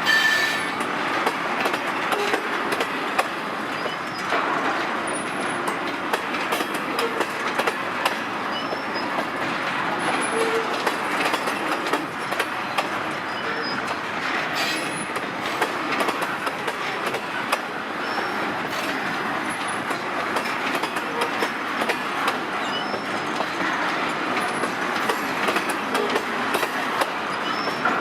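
A long freight train of petroleum tank wagons rolling past, with a steady rumble and wheels clicking over the rail joints, and faint brief wheel squeals here and there.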